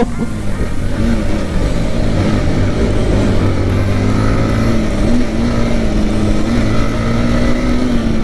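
Motorcycle engine running at fairly steady revs while riding, with its pitch wavering only a little, over low wind rumble on the microphone.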